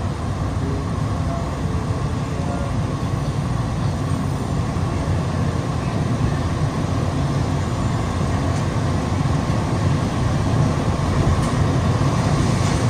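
Steady low rumble of an automated people-mover train car running through a tunnel, heard from inside the car, growing slightly louder near the end.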